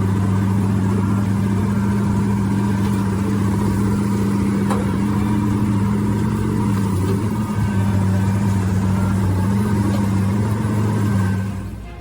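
An engine running at a steady speed, a constant low hum that barely changes, dropping away just before the end.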